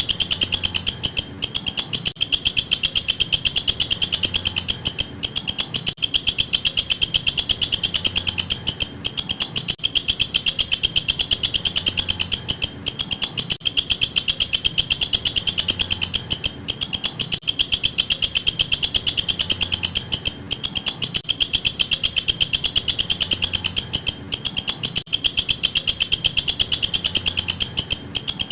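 Walang kecek katydid singing: a continuous, fast, even train of high-pitched chirping pulses, broken by brief pauses every couple of seconds.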